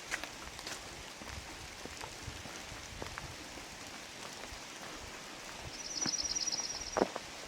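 Steady rain falling through the forest, with scattered drips ticking. Near the end a bird gives a fast, high trill of about a dozen notes, followed by a single sharp tap.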